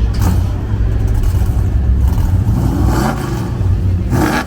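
1972 Chevrolet Chevelle engine running with a steady low rumble, with a brief rev about three seconds in. Two short loud bursts of noise come just after the start and near the end.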